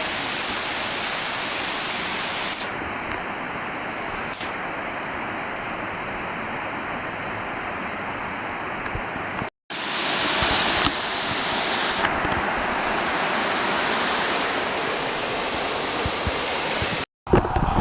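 Waterfall: a steady rush of falling water. It is cut off abruptly for a moment a little past halfway and again near the end.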